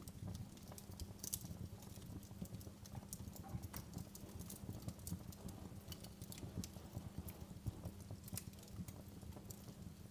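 Wood fire burning in a fireplace: a steady low rumble of flames with frequent irregular crackles and small pops from the burning logs.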